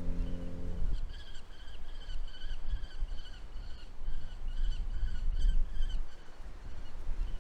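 A bird calling over and over in short chirps, about three a second, over a low wind rumble.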